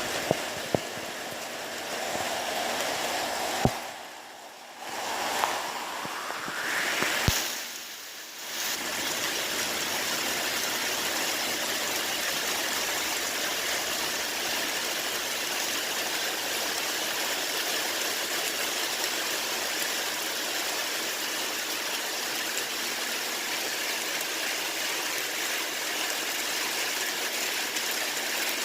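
Steady rain, an even hiss that settles in about nine seconds in. Before that the sound is broken, with a few sharp clicks, two short drops in level and a rising whoosh.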